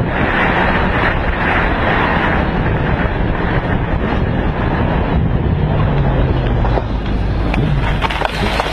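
Motorcycle engine running steadily at speed, largely buried under heavy wind noise on the microphone.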